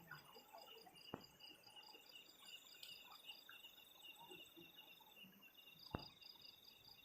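Faint night insects chirping in steady, rapid pulsing trills at several high pitches, with two short sharp clicks, one about a second in and one near six seconds.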